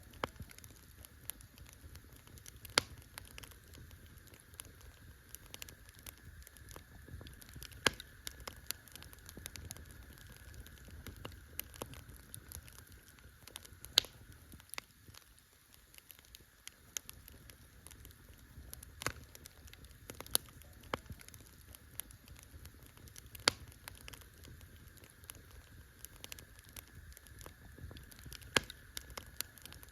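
Campfire crackling: a wood fire burning, with irregular small snaps and a few louder pops every several seconds over a low steady rumble.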